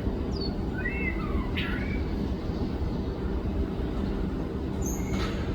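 White-rumped shama song: a few short whistled notes that glide up and down, in the first two seconds, and a sharp high note about five seconds in. Under them runs a steady low rumble.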